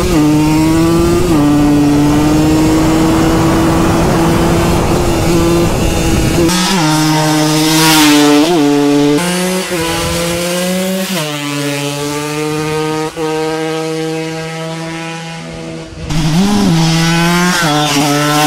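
150 cc two-stroke dirt bike engine running hard at a steady high pitch, then rising and falling through gear changes as the bike passes by. The engine was running with half its piston broken away, which gave it a rattle.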